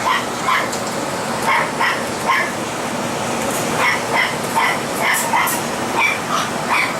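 Shih Tzu puppies yipping: a run of short, high-pitched barks, about two a second, over a steady background hiss.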